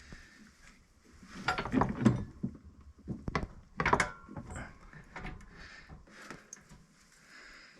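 Metal clunks and knocks from an A6 A/C compressor being worked into place on its mounting bracket, in a cluster of hits about a second and a half in and more near three and four seconds. The sharp knock about four seconds in leaves a short metallic ring.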